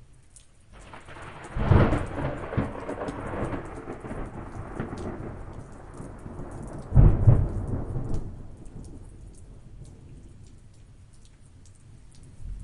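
Thunder over steady rain: a rumble builds about a second in and breaks into a loud crack, a second loud crack comes about seven seconds in, and the rumble then dies away, leaving rain falling.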